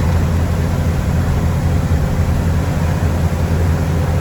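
Mack snowplow truck's diesel engine droning steadily while driving, with a constant hiss of road and plow noise over it.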